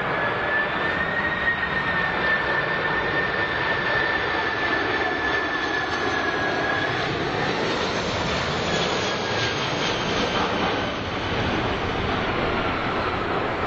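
Engines of a large jet airliner running: a steady roar with a high whine on top that dips slightly in pitch after about seven seconds.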